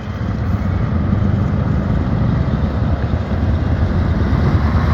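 Classic truck engine running, slowly getting louder.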